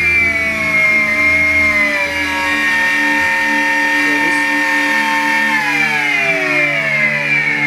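Miele Complete C3 Cat & Dog Powerline cylinder vacuum cleaner running with a steady motor whine that drops in pitch twice, slowly near the start and faster from about five seconds in, as the motor slows.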